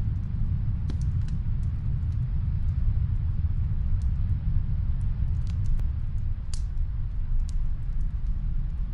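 Steady low rumble of snowstorm wind, with sparse, faint crackles of a wood fire from another room.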